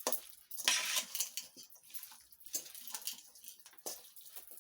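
A moist ground-meat, potato and onion stuffing with melted butter being mixed in a bowl: irregular wet squishing and scraping with short clicks, loudest about a second in.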